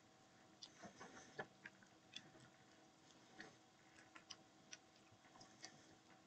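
Faint chewing while eating finger food: irregular small clicks, a few a second, over a low steady hum.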